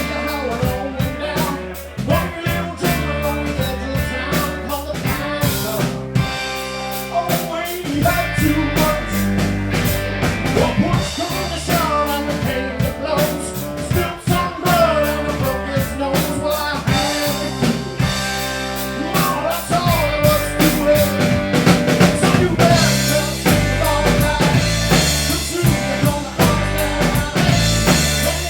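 Live blues band playing, with a drum kit keeping a steady beat under low bass notes.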